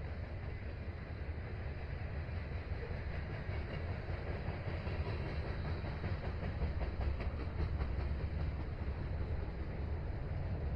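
Manifest freight train cars rolling past, a steady low rumble with wheels clicking over the rail joints.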